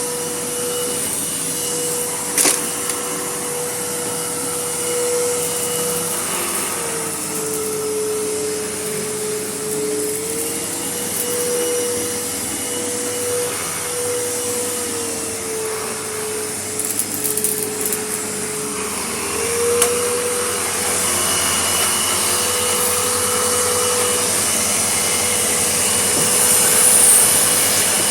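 Vacuum cleaner running over a dusty, gritty floor, a steady motor whine over a rush of suction. The whine sags in pitch twice and recovers, with a sharp click about two seconds in and a patch of crackling from grit being sucked up partway through.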